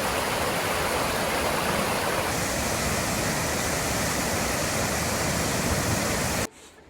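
Rushing water of a mountain stream, a steady, even roar that stops abruptly near the end.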